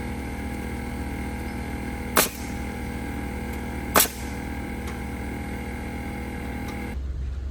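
Two sharp shots from a nail gun, about two seconds apart, over the steady hum of a running motor.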